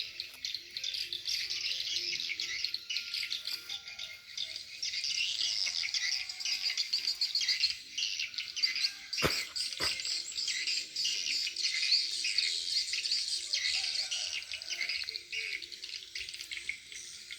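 Swiftlet calling sound played through tweeter speakers at a swiftlet house: a dense, continuous high twittering of chirps. Two sharp clicks come about nine and ten seconds in.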